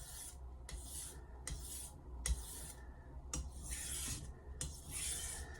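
Blade of a 210mm Misono Japanese knife being drawn across a whetstone in a series of short, light rasping strokes with brief pauses between: deburring, removing the burr raised by sharpening.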